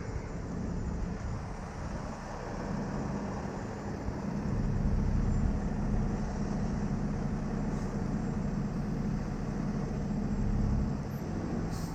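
Heavy truck engine running with a steady low rumble. It grows louder about four seconds in and eases back shortly before the end.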